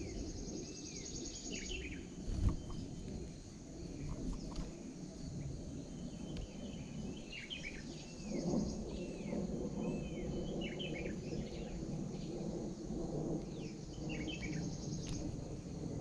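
Small birds giving short downward chirps in little series of several notes each. A fast high buzzing trill sounds in the first two seconds. A steady low rumble runs underneath, with one thump about two and a half seconds in.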